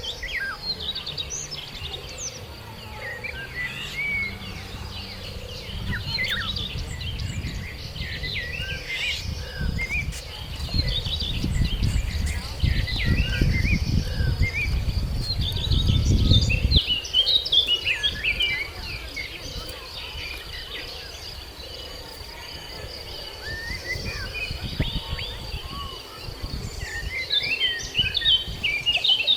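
Several birds chirping and calling over a steady, high-pitched insect drone. A low rumble builds up and cuts off abruptly a little past halfway.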